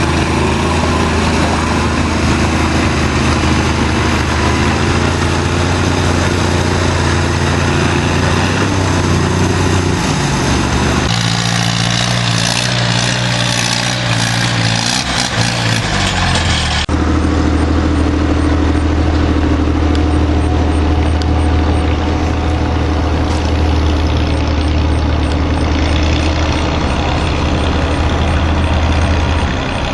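Antique tractor engines running steadily. The engine sound changes abruptly about eleven seconds in and again about seventeen seconds in.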